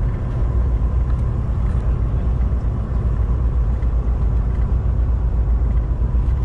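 Steady low drone of a semi-truck's engine and tyres, heard from inside the cab while the truck is driving down the highway.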